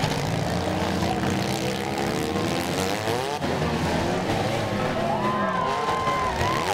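Several six-cylinder stock cars' engines revving hard and unevenly, their pitches sweeping up and down over one another as the cars push and ram in a demolition derby pile-up.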